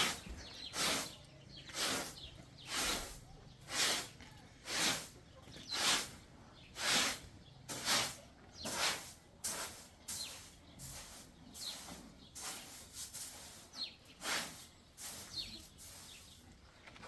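Rhythmic swishing strokes, about one a second, turning quicker and lighter in the second half, with faint bird chirps behind.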